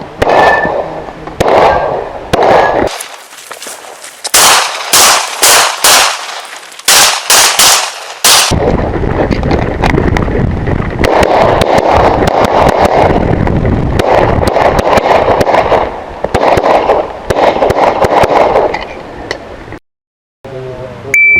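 Rapid strings of pistol shots from a .40 S&W Limited-division 2011-style competition pistol, about ten in quick succession in the middle. Near the end comes a short electronic beep, the kind a shot timer gives.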